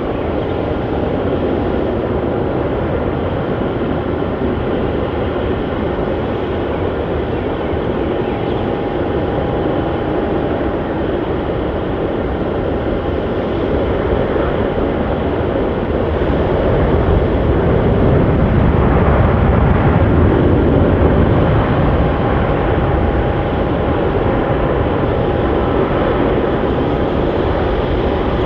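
Jet airliner engines: a steady noise with a faint high whine that swells to a peak about two-thirds of the way through, then eases as the aircraft passes.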